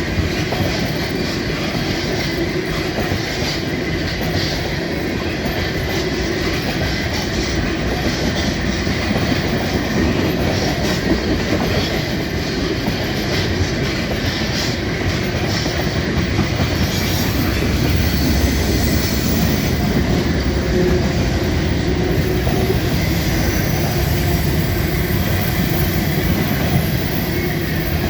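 Freight cars of a long mixed freight train rolling past steadily, steel wheels running over the rails. A deeper rumble builds about 17 seconds in.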